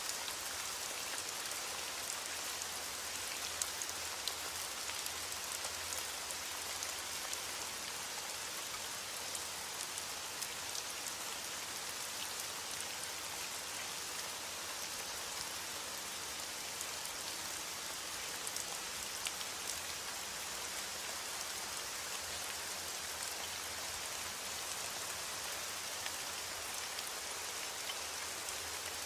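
Heavy rain striking a window, a steady hiss with scattered brief ticks.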